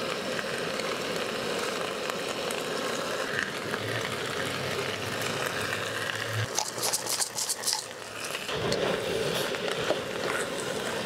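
Rice and seasoning sizzling in a wok over a propane camp stove burner, with a run of sharp clicks and scrapes from the spatula stirring a little past the middle.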